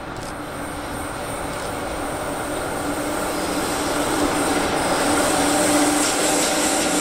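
Electric-locomotive-hauled freight train approaching, its running noise growing steadily louder, with a steady hum running through it.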